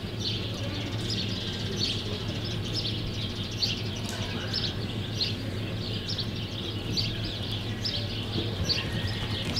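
Small birds chirping in short, high notes a few times a second, over a steady low hum.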